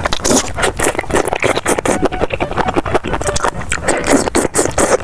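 Close-miked eating sounds: mushrooms being chewed with dense, irregular wet clicks and crackles.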